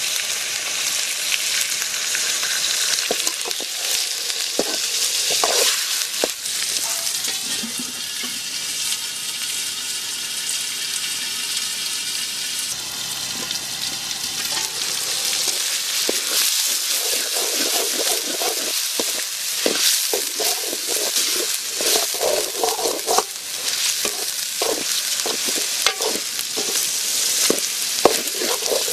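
Goat liver sizzling as it fries in a large aluminium pan. A slotted metal ladle scrapes and clatters against the pan as it is stirred, with the knocks coming more often in the second half.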